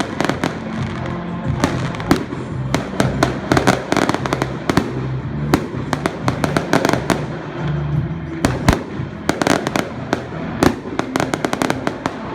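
Fireworks going off in a rapid, irregular string of bangs and crackles, with music playing underneath.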